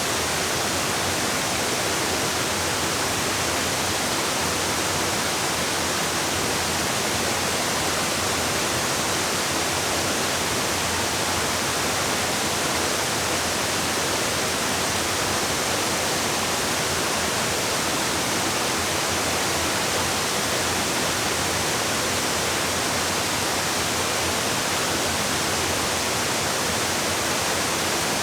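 Waterfall rushing steadily, an even, unbroken hiss of falling water with no change in level.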